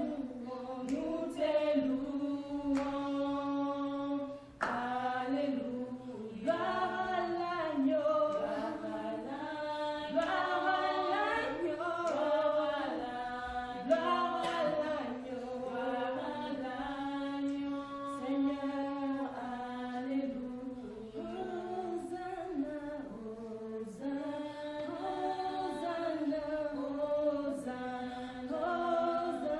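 Choir singing a hymn in long, held notes that step from pitch to pitch.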